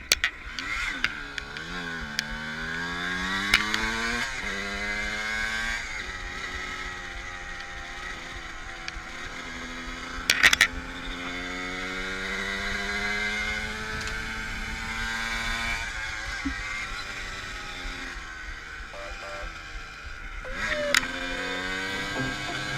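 Dirt bike engine revving hard and shifting, its pitch climbing and dropping again and again, with a couple of sharp clatters about halfway through and near the end.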